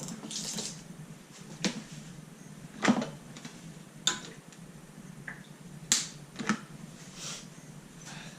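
Kitchen utensils and dishes being handled: about six sharp, irregular clicks and knocks, the loudest about three and six seconds in, with soft brushing noises between them.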